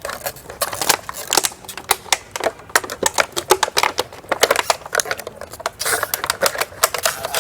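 Dense, irregular clicking and crackling of craft materials being handled and worked by hand, several sharp clicks a second.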